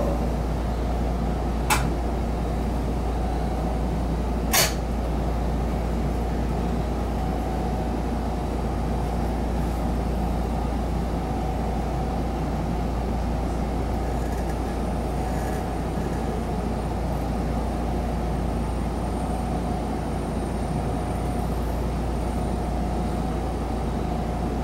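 Seibu 10000 series limited express train running, heard inside the passenger cabin: a steady low rumble of wheels on rails with a constant hiss. Two sharp clicks come in the first five seconds.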